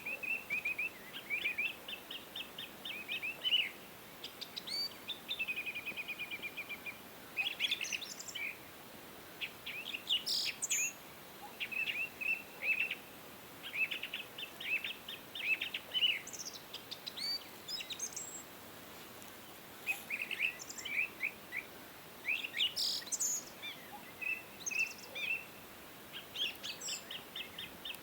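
Wild birds chirping and singing in quick chirps and rapid trilled phrases, one after another with short pauses, over a faint steady hiss.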